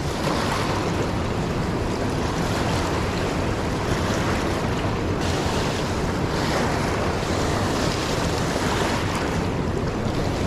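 A fast, swollen river rushing steadily past, a constant loud wash of moving water.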